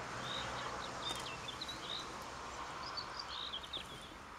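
Small birds chirping and twittering, short calls coming again and again, over a steady background hiss.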